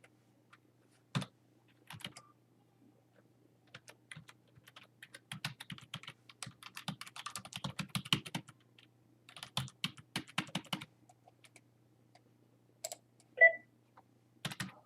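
Typing on a computer keyboard: bursts of rapid keystrokes, with a few single key clicks and pauses between them. Near the end comes one short beep, louder than the typing.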